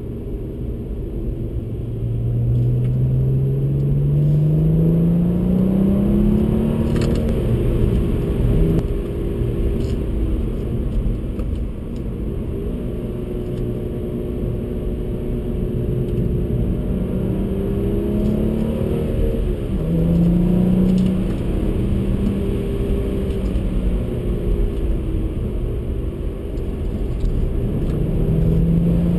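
BMW 135i's turbocharged inline-six engine heard from inside the cabin over steady tyre and road rumble. The revs climb steadily for about five seconds, drop about seven seconds in, then hold fairly steady. Roughly two-thirds of the way through they dip and jump back up, and they rise again near the end.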